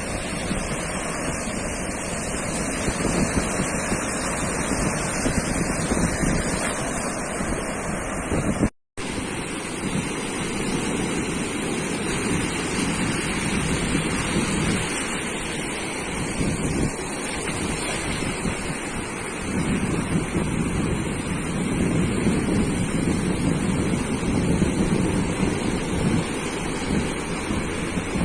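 Sea surf washing onto a beach, a continuous rush of waves that swells and eases, with wind buffeting the microphone. The sound cuts out completely for a split second about nine seconds in.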